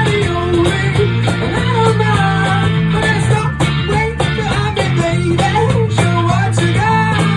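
A live rock band plays an instrumental guitar passage without vocals: a moving melodic guitar line over a steady, sustained bass note.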